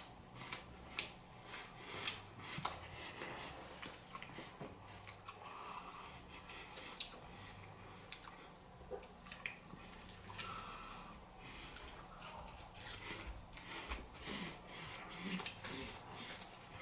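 A person chewing and biting food close to the microphone, with scattered short clicks and wet smacks of the mouth.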